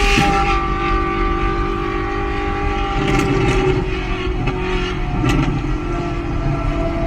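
Ferrari 458 Italia's V8 with an aftermarket straight-pipe exhaust (headers and test pipes) running at steady revs, a held, unchanging droning note.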